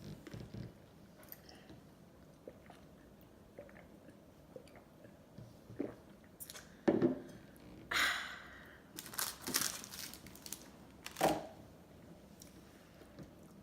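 A person eating ice cream close to the microphone: soft mouth clicks and chewing, then a run of louder crunching bites in the second half.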